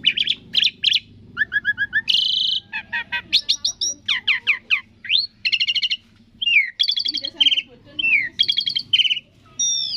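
Asian pied starling (jalak suren) singing a fast, varied song: rapid runs of sharp repeated chirps mixed with whistles that slide down in pitch, with hardly a pause.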